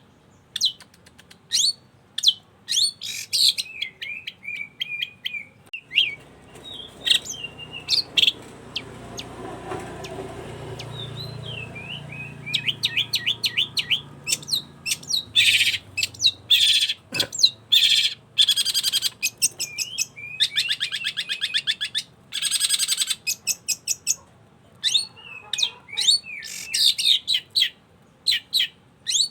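Long-tailed shrike (cendet) singing vigorously: a rapid, varied string of sharp chirps and short whistled slurs, broken around the middle by a few dense, buzzy rattling phrases.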